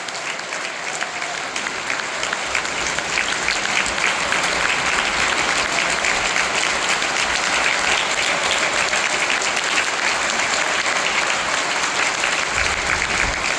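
Large audience applauding: dense, even clapping that grows a little louder over the first few seconds and then holds steady.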